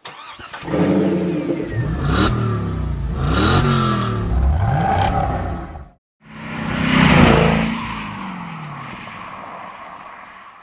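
Dodge Challenger engine through an MBRP aftermarket exhaust, revved up and down several times. It cuts out briefly about six seconds in, then comes back with one loud surge that slowly fades away.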